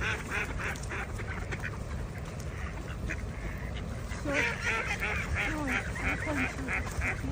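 A flock of ducks quacking in quick runs of calls, about four a second: one run in the first two seconds, then a louder, longer run from about four seconds in.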